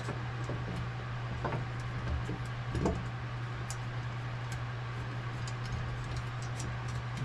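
Scattered light clicks and ticks of hand work fitting a shifter bracket with 5/16-18 bolts, with a couple of soft knocks, over a steady low hum.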